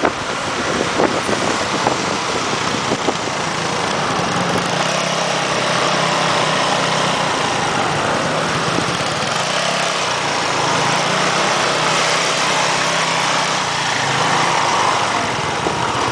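Motorcycle engine running steadily on the road, under a steady rush of road and wind noise.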